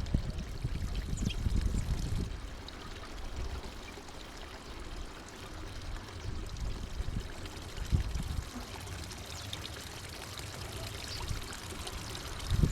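Uneven low rumbling outdoor noise, like wind on the microphone or running water, with a few faint, short high chirps from small birds at the feeder.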